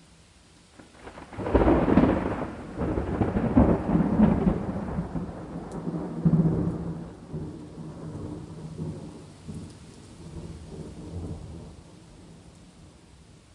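A peal of thunder rolls in about a second in, rumbles on in several swells, and slowly dies away over faint steady rain.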